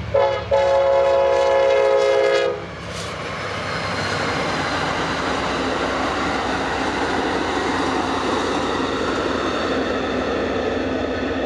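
Locomotive air horn at a grade crossing: a brief toot, then a long chord blast that stops about two and a half seconds in. The steady rumble and wheel clatter of the train passing close by follows.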